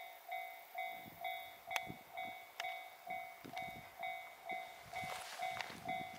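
A freight train of container cars hauled by an EH500 electric locomotive rolls past, its wheels knocking and clattering irregularly. A level-crossing warning bell rings steadily throughout, about twice a second.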